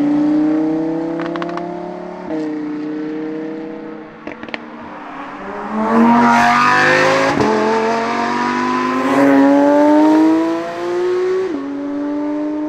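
Supercars accelerating hard away one after another. A Lamborghini Huracán Tecnica's V10 rises in pitch, shifts up about two seconds in with a sharp drop in pitch, and fades, with a few sharp clicks. About six seconds in, another car passes loud and pulls away, rising through the gears with upshifts about a second and a half in and again near the end, while a Porsche 992 GT3 pulls away.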